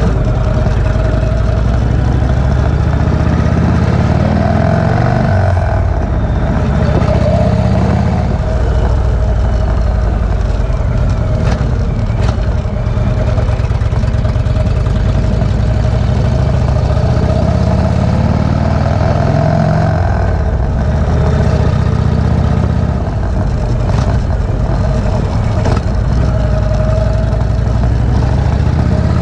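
V-twin cruiser motorcycle engine running while under way, its pitch dipping and rising a few times as the throttle eases off and opens again, over a steady rush of wind noise.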